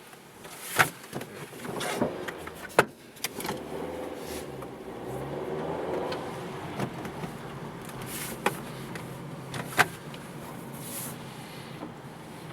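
Mazda Miata's four-cylinder engine running and revving, its pitch rising and falling, heard from inside the car. Several sharp knocks stand out above it.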